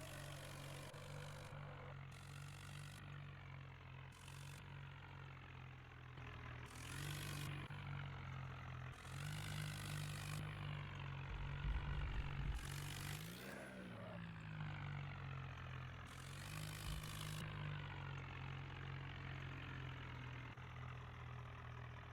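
Mahindra Arjun tractor's diesel engine running steadily, with a louder rumbling stretch and a brief rise and fall in pitch a little past halfway.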